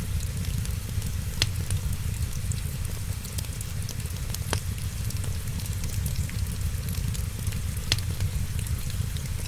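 Wood fire crackling, with a steady low rumble and hiss and three sharp pops spread through it.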